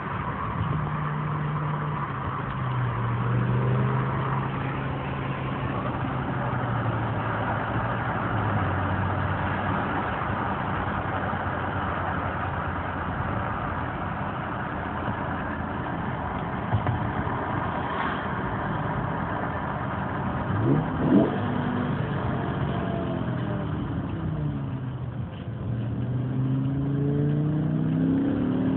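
BMW M6 engine under way: its note rises and falls through the gears over steady road noise. There is a quick sharp rev about twenty seconds in, and a climbing pitch as the car accelerates near the end.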